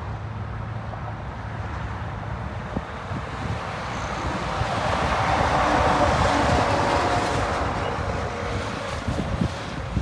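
Jet airliner passing by, its engine noise swelling to a peak about six seconds in and then fading. Wind rumbles on the microphone throughout.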